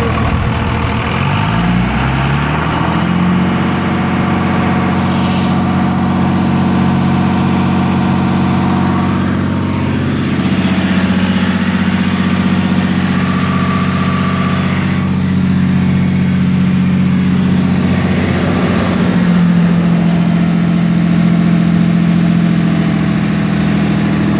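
Cummins 5.9 straight-six diesel engine revved up from idle over the first few seconds, then held at a steady raised speed, with small shifts in pitch a couple of times. It is run up to bring out a thumping noise whose cause the owner does not know.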